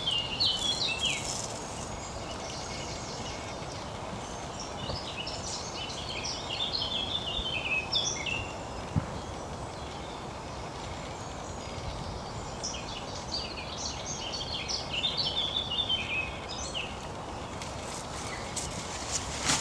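Songbirds singing outdoors: spells of quick, high chirping phrases, three times, over a steady background hiss.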